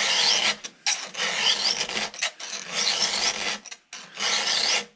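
Round file rasping in repeated back-and-forth strokes across the cutter teeth of a .325 chainsaw chain, about one stroke a second. It is hand-sharpening a badly damaged cutter, taking a lot of metal off to bring it back.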